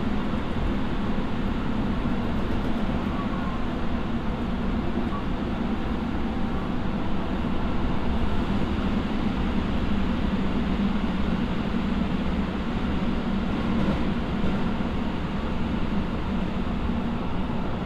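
Running sound inside a Hokuso Railway 9100 series electric train car: a steady rumble of wheels on the rails at running speed, with no clear change in pitch.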